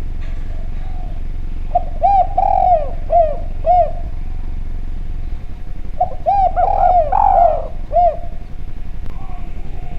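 Spotted dove (derkuku) cooing in two phrases of several clear, arched coo notes, about four seconds apart, over a steady low background hum.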